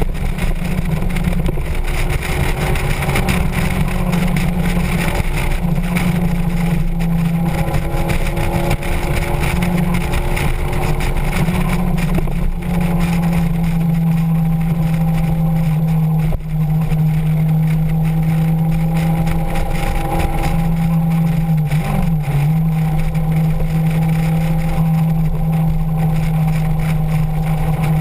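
Motorcycle engine running at a steady cruising speed, with wind noise over the microphone. The engine note dips briefly about sixteen seconds in, then holds steady again.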